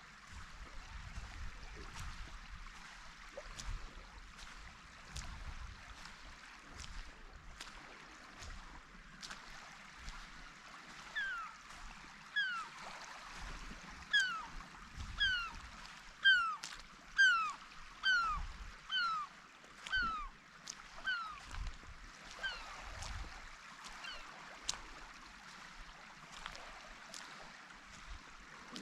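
A gull calling, a run of about fifteen short, falling calls over some twelve seconds in the middle, against a faint steady background with scattered light clicks.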